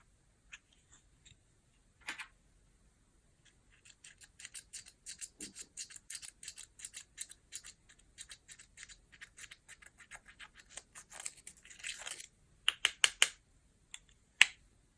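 Clear slime being stirred and worked, giving a rapid run of sticky clicks and pops, about four or five a second, with a few louder pops near the end.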